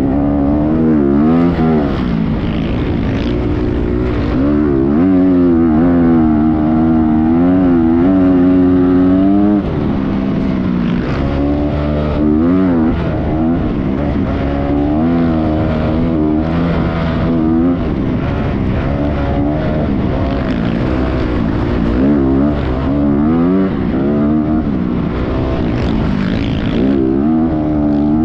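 Motocross dirt bike engine running under changing throttle, its pitch rising and falling again and again as it revs up and backs off.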